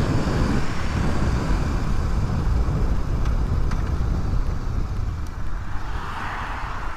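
Wind rushing over the microphone with road noise and the Suzuki DR250S motorcycle's engine running underneath while riding.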